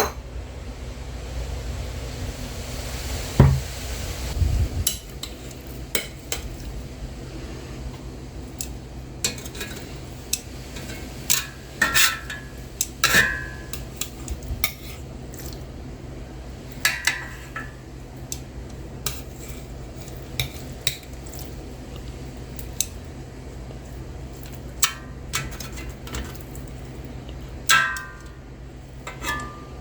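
Cutlery and dishes clinking in scattered sharp clicks and short rings, over a steady low hum.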